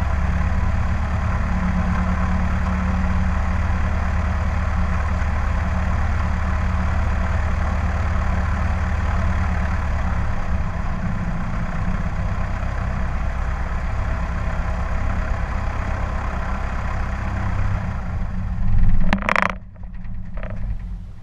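Cessna 152's four-cylinder Lycoming O-235 engine running steadily at low power, heard from the wing. About nineteen seconds in there is a brief loud rush, then the sound falls away sharply.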